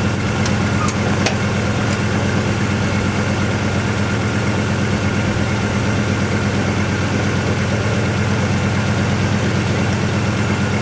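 1974 Dodge engine idling steadily after a cold start, with a few light clicks in the first couple of seconds.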